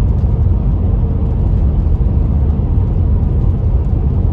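Steady road and engine noise inside a moving car's cabin, a low, even drone that holds without change.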